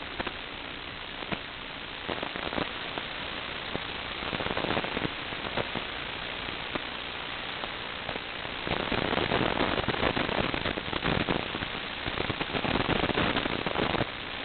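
Steady static hiss with scattered crackles, growing louder and more crackly for stretches around four seconds in and again from about nine seconds in.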